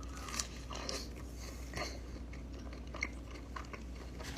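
Close-miked chewing and biting of a cheese empanada: soft crunches and small mouth clicks, the sharpest about half a second in and about three seconds in, over a low steady hum.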